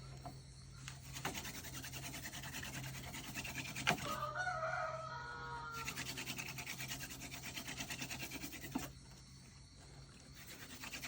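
Wood rubbing hard on wood to start a fire by friction: a fast, rhythmic scraping that stops about nine seconds in and starts again near the end. A rooster crows once, about four seconds in.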